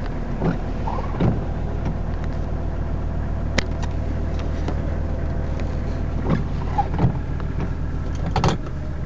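Mercedes-Benz 300D's OM617 five-cylinder turbo diesel idling steadily just after starting, with a few light clicks and knocks over it.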